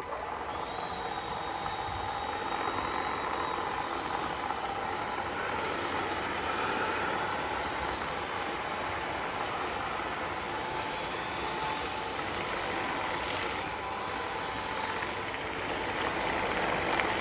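UMLo V160 cordless stick vacuum switching on and running steadily while sucking up thick dog hair, a motor whine over a whoosh of airflow. The whine steps up in pitch about four to six seconds in.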